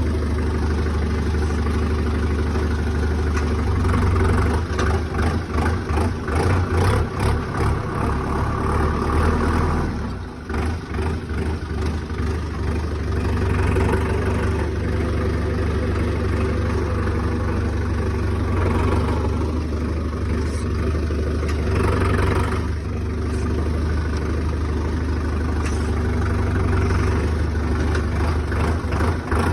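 Sonalika 750 tractor's diesel engine running steadily, just started from cold. Between about 4 and 10 seconds in, its sound rises and falls in quick pulses, with a short dip just after.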